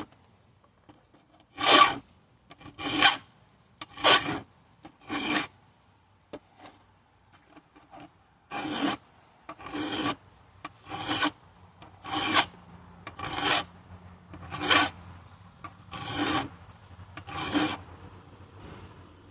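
Hand file strokes on a chainsaw chain's cutting teeth, one rasping stroke about every second: four strokes, a pause of about three seconds, then eight more.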